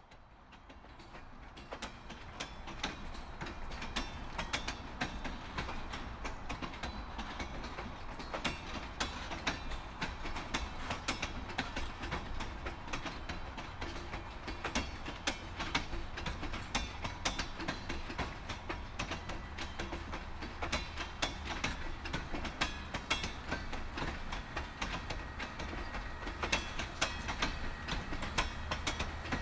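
Open-top hopper cars of a freight train rolling past, their steel wheels and couplers giving a dense, uneven rattle of clicks and clanks over a low rumble. The sound builds up over the first couple of seconds.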